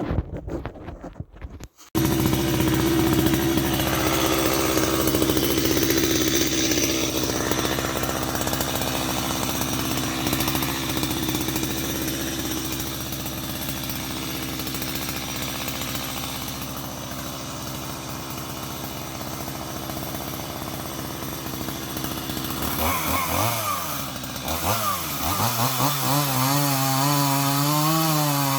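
Chainsaw starting up in short bursts, then running steadily while cutting wood. Near the end its note drops and wobbles unevenly up and down.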